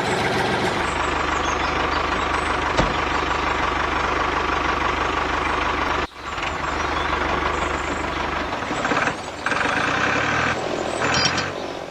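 Engine running steadily with a low rumble. It breaks off sharply about six seconds in, resumes, and turns uneven near the end.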